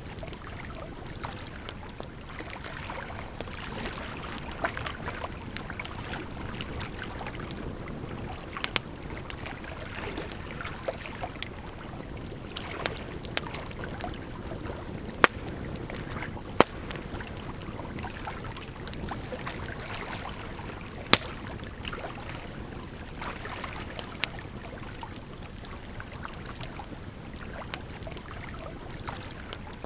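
Firewood crackling in a fire, with scattered sharp pops, the loudest three a little past halfway, over a steady sound of running water.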